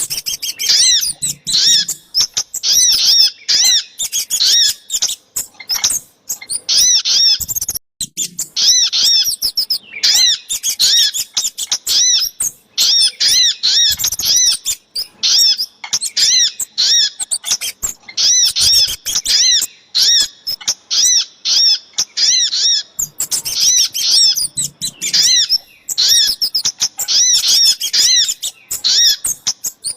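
Bird-luring recording of sogok ontong and kemade calls: high, sharp chirps repeated rapidly in runs of a second or two, separated by short gaps.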